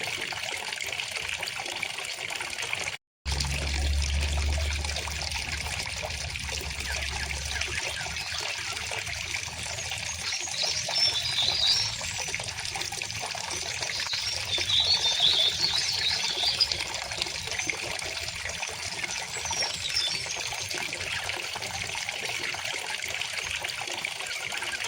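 Steady trickling and babbling of a shallow river stream, with birds chirping in bursts about ten seconds in and again around fifteen seconds in. The sound cuts out for a split second about three seconds in, and a low rumble follows for a few seconds.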